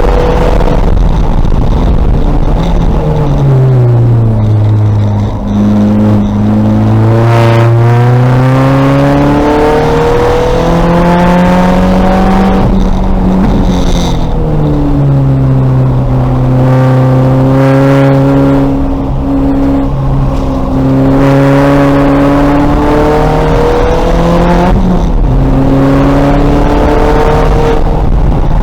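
2000 VW Golf race car's engine under racing load, its pitch falling as it brakes and downshifts for a corner about 3 seconds in, then climbing through the gears with upshifts, and rising and falling again for later corners.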